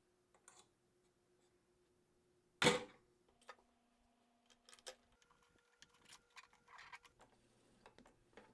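One loud thump about two and a half seconds in, among scattered light clicks and ticks.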